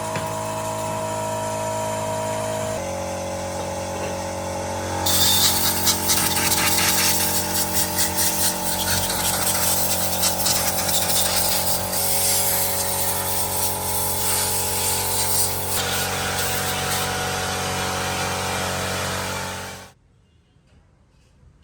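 An electric power tool running steadily, with a high scraping or grinding noise that grows louder about five seconds in. It stops abruptly near the end.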